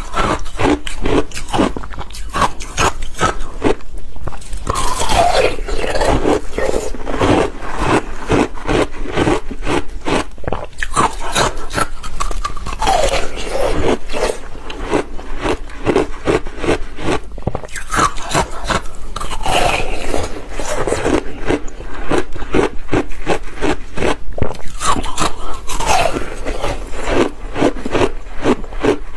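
Close-up crunching of passion-fruit ice being bitten and chewed: a dense, irregular run of crisp crunches, with a short falling squeak from the ice now and then.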